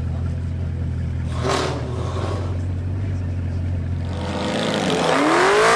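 Supercar engine idling with a steady low drone, then revved hard near the end, its pitch climbing steeply to the loudest point before it breaks off suddenly.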